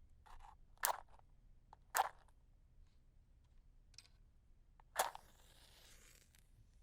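Wooden match scraped against a striker several times in short sharp strikes. On the loudest strike, about five seconds in, it catches and the head flares with a brief hiss.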